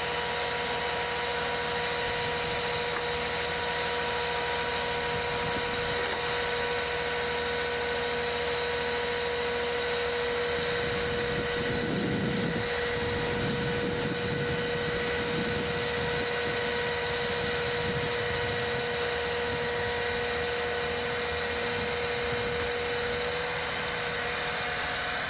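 A heavy vehicle's engine running steadily under a constant whine, with a low rumble swelling briefly around the middle.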